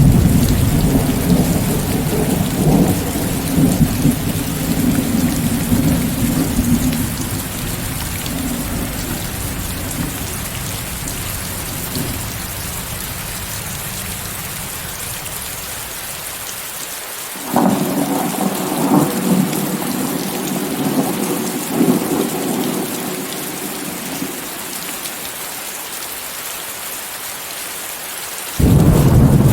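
Steady rain hiss, mixed with white noise, under rolling thunder. One long thunder roll fades away over the first half. A new roll with crackling peaks starts abruptly a little past halfway and dies down, and another starts just before the end.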